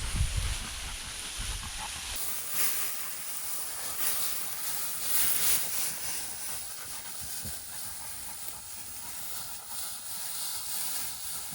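Steady hiss of dry grass and brush rustling as someone pushes through upland cover on foot, with several louder swishes. A low wind rumble on the microphone in the first two seconds.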